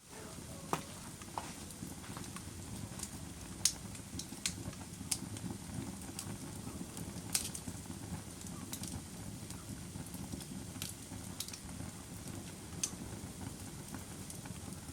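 Wood fire crackling: a steady low rumble of burning with irregular sharp pops and snaps, a couple of them louder than the rest.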